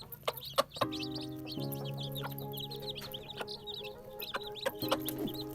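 Baby chicks peeping rapidly, many short high calls overlapping, with sharp clicks scattered among them. Background music with held chords comes in about a second in.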